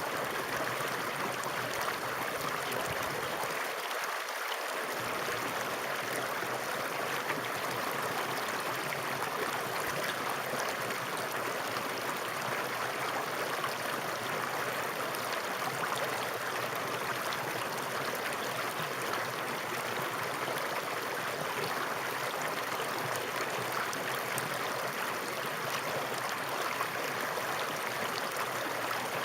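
Flowing water running steadily, an even, unbroken hiss of water with most of its sound in the middle and upper range.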